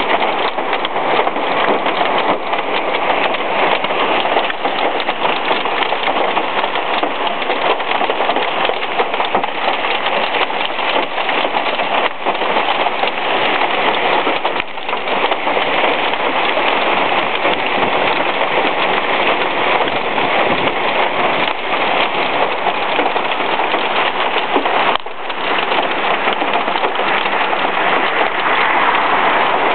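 Torrential thunderstorm rain mixed with nickel-sized hail pelting down, a loud, dense, steady clatter of countless impacts.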